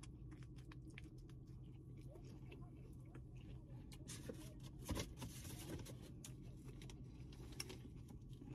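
Faint chewing of a mouthful of sub sandwich, with small wet mouth clicks, and a soft bump about five seconds in.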